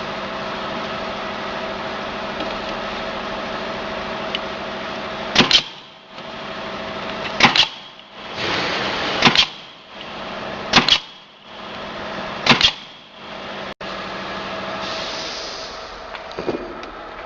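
Gasoline engine of a mini concrete mortar pump running steadily, then five sharp double knocks about two seconds apart, with the engine hum dropping away between them and coming back fainter near the end.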